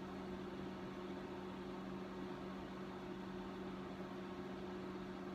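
Steady electrical hum with an even background hiss, unchanging throughout: shop room tone.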